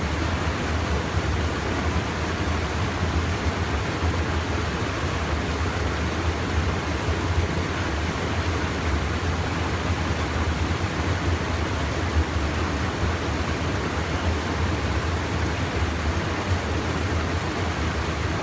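Steady rush of a small stream's water pouring over a check dam (weir), an even hiss with a low rumble underneath.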